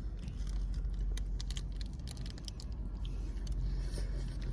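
Eating sounds from a burger mukbang: scattered small clicks and smacks of chewing and handling food, over a steady low rumble.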